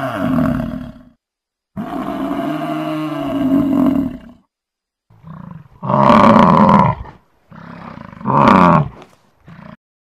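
Buffalo calling in a series of low, moaning calls. One call trails off about a second in and a second lasts a couple of seconds. Then come shorter calls, the loudest about six and eight and a half seconds in.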